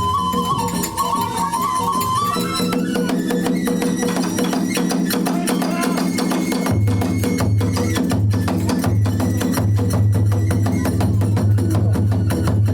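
Kagura hayashi ensemble playing. A transverse flute melody steps upward over the first couple of seconds over fast clashing hand cymbals and wooden clicks. A low drum comes in strongly about two-thirds of the way through.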